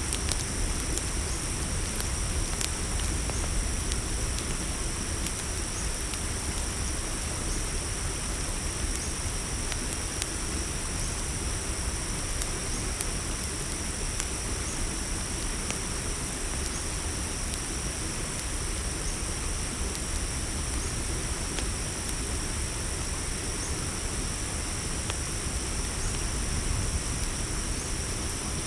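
A steady chorus of crickets chirring, with the scattered small pops of a crackling campfire over a low, even rush of noise.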